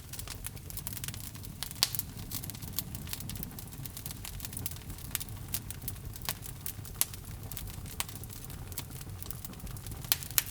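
Wood fire burning in a fireplace: steady low rumble of the flames with many sharp crackles and pops from the burning logs, several louder pops scattered through.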